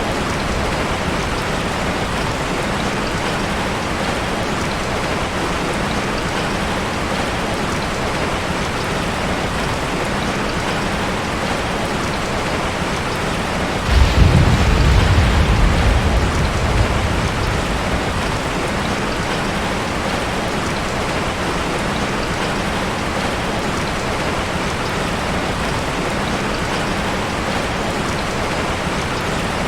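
Steady rain falling, with a low roll of thunder breaking in about halfway through and dying away over a few seconds.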